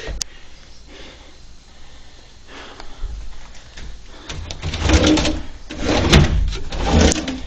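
Kitchen cupboard doors and drawers being opened and shut: a sharp knock just after the start, then a run of clattering knocks and scraping from about four seconds in.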